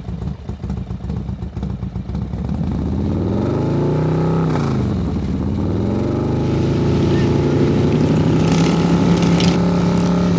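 Motorcycle engine revving, its pitch rising to a peak about four seconds in and dropping back, then running at a steady pitch.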